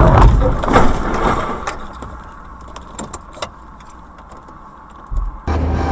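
Tail of a car crash: loud crash noise fading over the first second or so, then a few small clicks and rattles of settling debris. Electronic music starts near the end.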